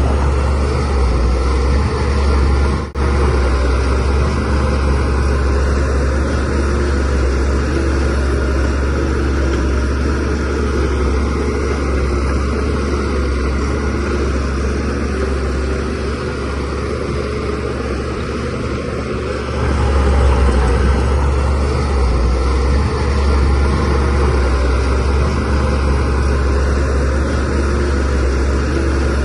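DH17C3PRO bulldozer's diesel engine running steadily with a deep hum. It drops out for an instant near three seconds and gets louder from about twenty seconds in.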